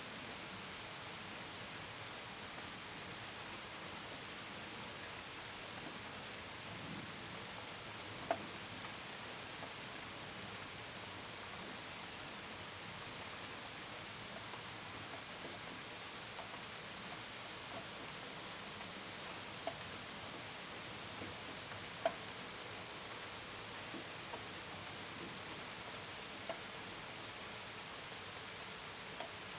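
Steady gentle rain pattering, with crickets chirping in a continuous high, pulsing trill. A few louder single drops land on a hard surface, the strongest about eight and twenty-two seconds in.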